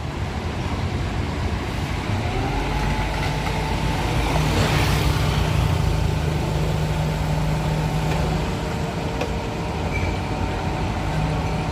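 2025 Isuzu FVR garbage truck running steadily with a low engine hum. About two seconds in, a whine rises and then holds. About five seconds in there is a short hiss.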